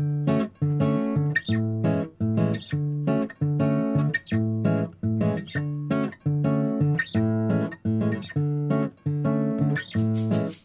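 Background music: acoustic guitar chords plucked in a steady, even bossa nova rhythm.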